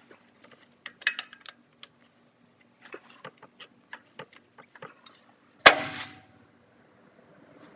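Scattered metallic clicks and knocks of a hand tool working loose a truck's oil filter, with one loud clank that rings briefly about two-thirds of the way through.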